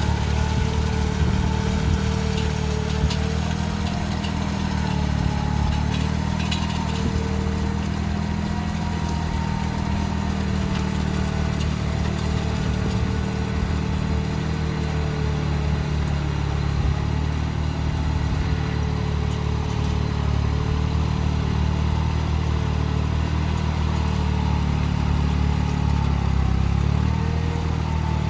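Tractor motor running steadily, its pitch wavering slightly up and down as it works.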